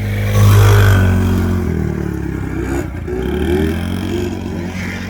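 Manual quad bike engine running under throttle while riding. It surges louder about half a second in, then the engine note wavers up and down repeatedly from about three seconds in.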